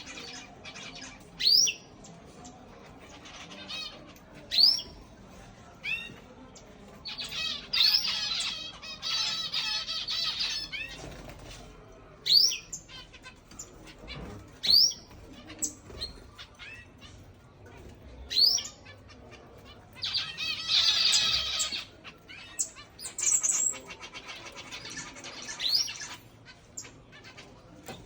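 Pet finches calling with short, sharp chirps every few seconds, broken by two longer stretches of warbling song, about 7 to 11 seconds in and again from about 20 to 26 seconds in.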